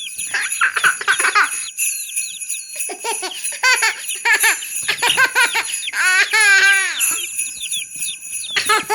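Jingle bells ringing steadily, with repeated short bursts of high-pitched giggling laughter whose pitch bends and wavers, the longest about six seconds in.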